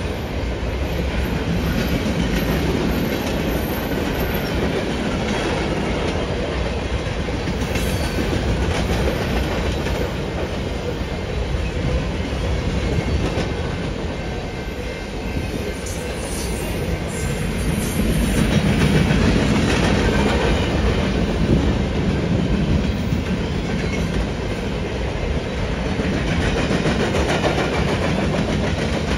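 Train cars rolling past, their wheels running over the rails in a continuous clatter that grows a little louder about two-thirds of the way through.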